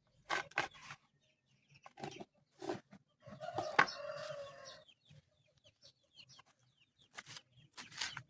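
Chickens clucking in short calls, with one longer, drawn-out call starting about three seconds in.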